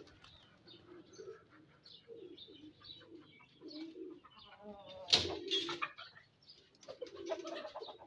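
A pigeon cooing repeatedly, low and soft, with small birds chirping high around it. About five seconds in there is a loud, sharp rattle as the wire-mesh door of a brick chicken coop is opened.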